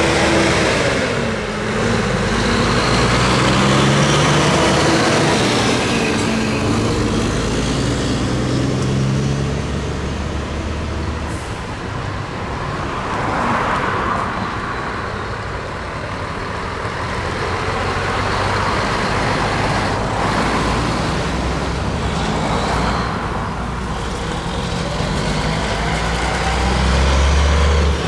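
Heavy trucks in a convoy driving on the road, their diesel engines running with notes that rise and fall as they move off and pass.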